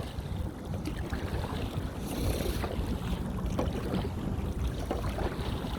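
Wind buffeting the microphone over water lapping around a small boat, a steady low rumble with a few faint knocks and a brief higher hiss about two seconds in.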